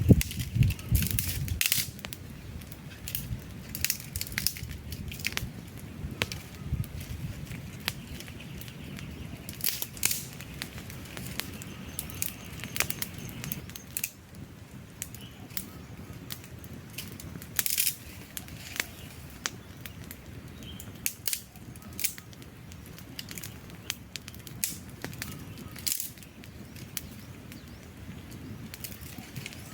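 Wood campfire burning and crackling: irregular sharp pops and snaps, several a second at times, over a steady low hiss and rustle of flame. A louder low rumble sounds briefly at the start.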